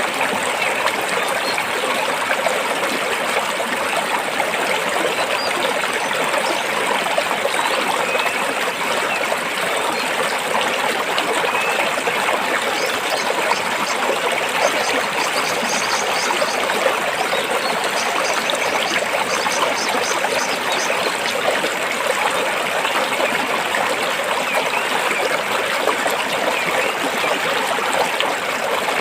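Stream water flowing and splashing between rocks: a steady, unbroken rushing.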